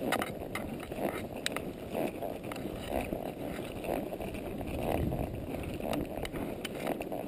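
Wind rumbling on the microphone over a horse walking on a wet trail, with a few sharp clicks.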